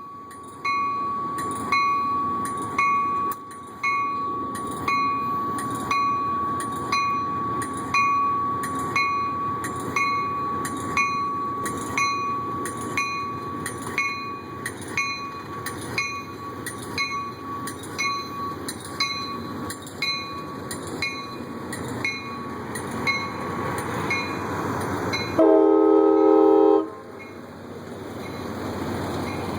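Train bell ringing steadily, struck about once a second. About 25 s in, a short, loud train horn blast sounds over it, followed by the rising rumble of the train.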